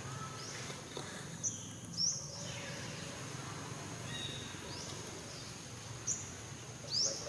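Outdoor ambience of a few short, high, rising bird chirps, about five of them scattered through, over a thin steady high insect whine and a low background hum.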